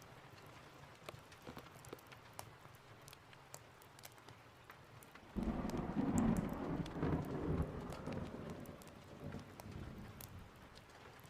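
Steady rain with scattered sharp crackles from a fireplace; about five seconds in, a thunder rumble breaks in suddenly, loudest for a couple of seconds, then dies away over the next few.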